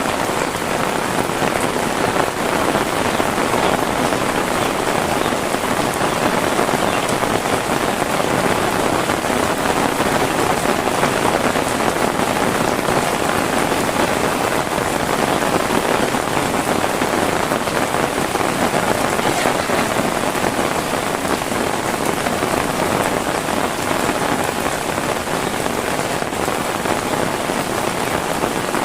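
Heavy rain falling steadily, a dense even patter on the surfaces around.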